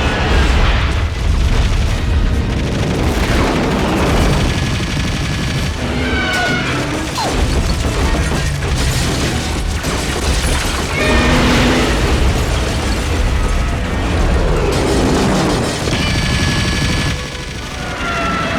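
Dense action-film soundtrack: a dramatic music score mixed with heavy booms and a continuous deep rumble.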